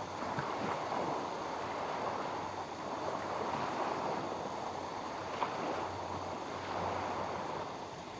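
Small lake waves washing against the shore, swelling and ebbing every second or two.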